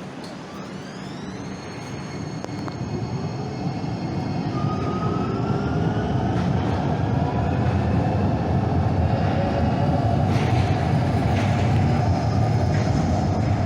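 Electric train pulling away and speeding up: its traction motors give a rising whine that levels off, while the running rumble grows steadily louder.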